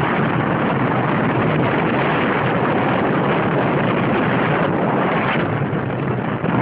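Steady rushing road and wind noise from a moving vehicle, with wind buffeting the microphone.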